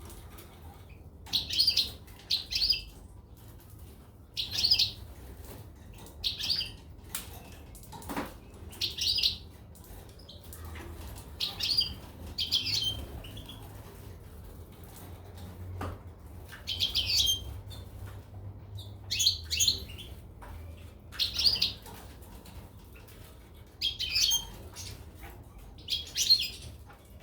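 Caged goldfinches and canaries chirping: short, high call notes repeated every one to two seconds.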